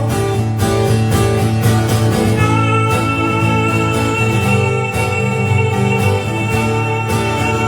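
Live guitar strumming a song's closing bars. About two and a half seconds in, a long steady note comes in and is held.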